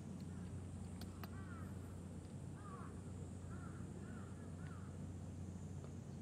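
A bird calling several times, short arched calls roughly a second apart, over a steady low outdoor hum. Two sharp clicks come about a second in.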